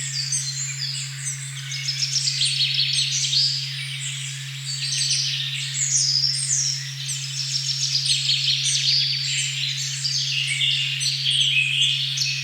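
A steady, unchanging 136.1 Hz pure tone hums low under a forest recording of several songbirds singing at once, a dense mix of short falling phrases and trills.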